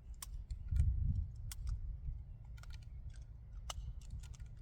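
Irregular light clicks and clatter of small hard objects being handled, with a low rumble or bump on the microphone about a second in.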